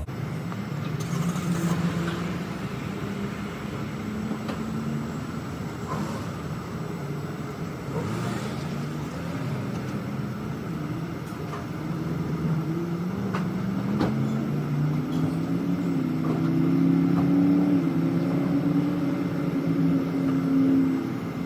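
Motor vehicle engines running nearby, with pitched engine tones that rise and get louder over the last several seconds, and a few scattered clicks.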